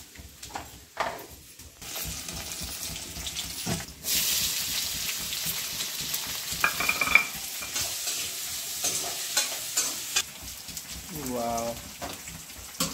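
Sliced onions frying in hot oil in a metal kadhai, sizzling steadily after a sharp start about four seconds in. A long metal spatula stirs and scrapes them against the pan, giving frequent small clicks.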